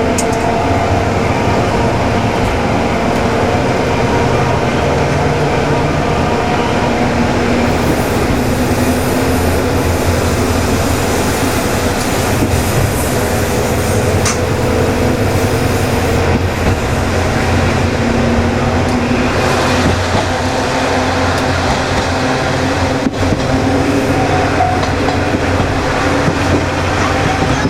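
Diesel railcar running under way, heard from inside the car: a steady engine drone with wheel and rail noise and occasional clicks over rail joints. The railcar is a KiHa 20 with a DMH17 diesel engine.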